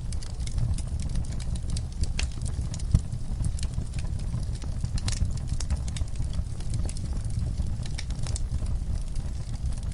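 Fire in a fireplace crackling, with irregular sharp pops over a steady low rumble of the flames. One louder pop about three seconds in.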